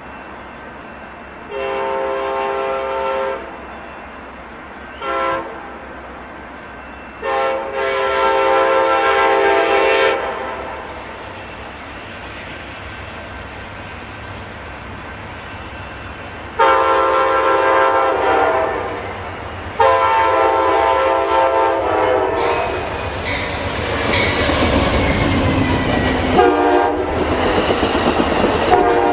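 Nathan K5LA five-chime air horn on Amtrak GE P42DC locomotive #72 sounding a series of blasts, mostly long with one short, as the train approaches. In the last few seconds the passenger train passes close by with loud engine and wheel noise and clickety-clack, and the horn is still sounding.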